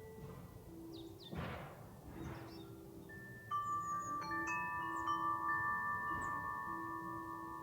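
Wind chime set off by the breeze about halfway through, several clear bell-like tones struck at once and ringing on together. Before it come two short gusts of wind.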